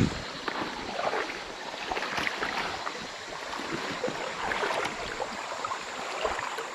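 Shallow creek water splashing and sloshing with irregular small splashes, over a steady rush of the current; a single knock sounds right at the start.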